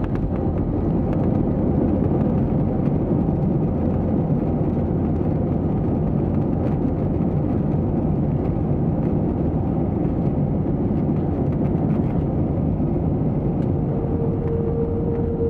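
Steady rumble of jet engines and airflow heard inside the cabin of an Airbus A321-200 around landing, with a steady whine coming in near the end.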